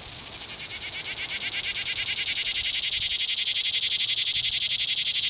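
Male cicada singing close up: a loud, rapidly pulsing buzz that swells over the first couple of seconds, then holds steady.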